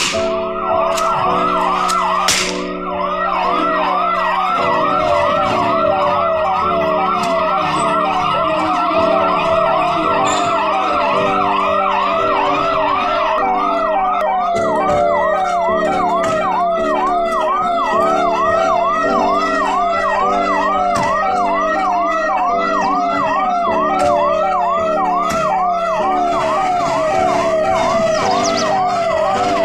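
Police vehicle siren in a fast yelp, its pitch sweeping up and down about two to three times a second without a break.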